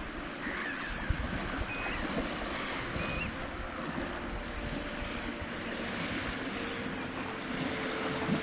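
Waves washing on a shore with wind buffeting the microphone. A few short, high whistled bird calls come in the first few seconds.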